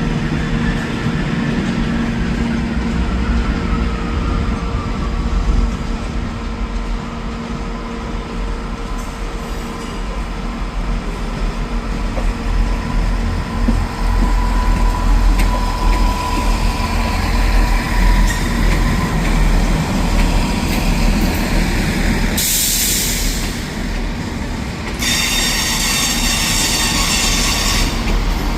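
A train running with a steady low rumble. There is a short hiss about three-quarters of the way through, then near the end a loud, high, many-toned squeal of wheels on rail.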